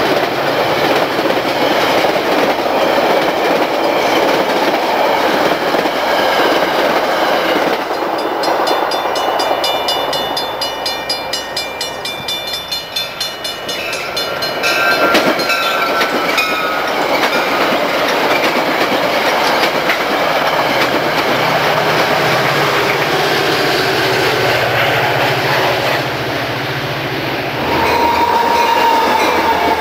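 Metra bilevel commuter train passing close by: a steady rumble with the clickety-clack of wheels over rail joints. The sound dips for a few seconds midway, then a train's rumble returns, with a short held tone near the end.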